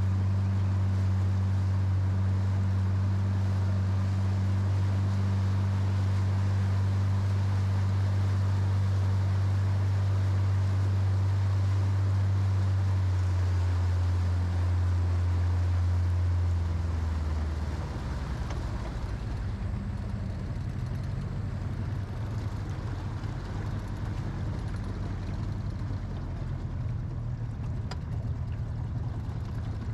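Jon boat's outboard motor running at a steady pitch, then throttled back about 17 seconds in to a quieter, rougher, slower running.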